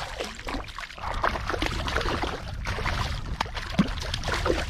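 Water splashing and sloshing beside a kayak while a hooked pike is played in, with a steady low rumble underneath.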